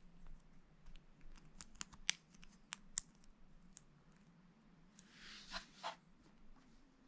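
Small plastic Lego pieces clicking and tapping as they are handled and pressed together, in a scatter of sharp, faint clicks. A short rustle comes about five seconds in.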